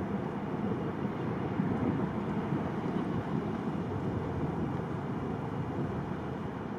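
Steady roar of a Boeing 777-200's jet engines on a departure, mixed with wind on the microphone.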